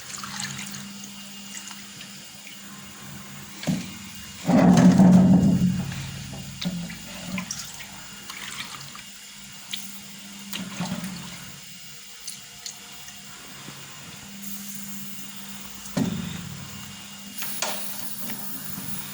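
A loud gushing rush lasting about two seconds, starting about four and a half seconds in, during a compressed-air leak test of a tractor diesel's fuel injection pump. A steady low hum and a few small clicks run underneath.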